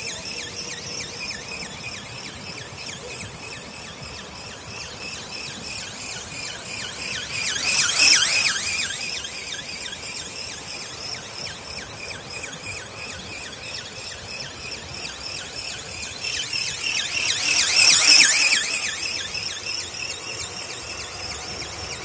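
Electric motor and flapping gearbox of a radio-controlled ornithopter, a high-pitched pulsing whine. It swells loud twice, about eight and eighteen seconds in, and fades after each, like the model passing close.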